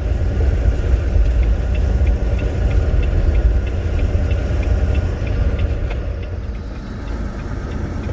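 Steady low engine and road rumble inside a moving semi truck's cab. A faint, even ticking of about two or three a second runs through the middle.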